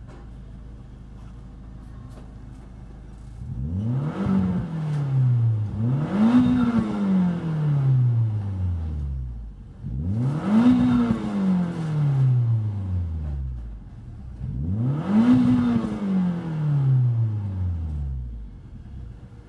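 Nissan Bluebird U12 SSS's SR20DET turbocharged 2.0-litre inline-four idling steadily, then revved four times with the car standing still. Each rev climbs quickly and sinks slowly back to idle, and the second comes before the first has fully settled.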